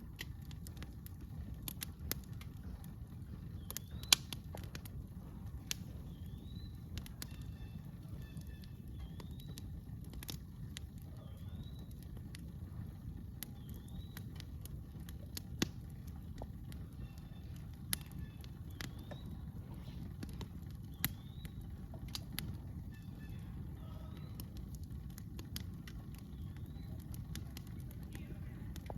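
Campfire crackling, with scattered pops, a few of them sharp and loud, over a steady low rumble. A small bird repeats short rising chirps throughout.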